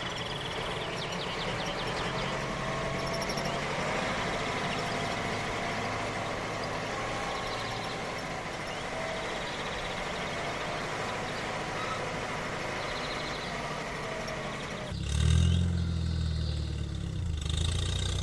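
Steady outdoor background with faint bird chirps. About 15 seconds in, an engine suddenly starts and keeps running with a low, even pitch.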